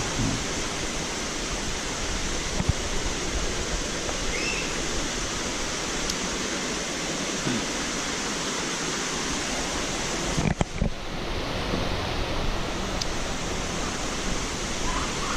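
Water from the waterfall's cascades rushing steadily, with a brief knock about ten and a half seconds in.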